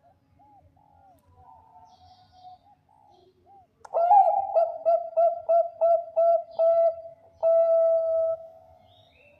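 Zebra dove (Bangkok perkutut) cooing: faint coos at first, then about four seconds in a loud phrase of quick, stuttering coo notes that ends in one long drawn-out coo.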